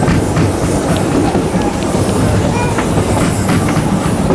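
Narrow-gauge railway train running along the track: a steady, loud rumble with scattered wheel clicks over the rail joints.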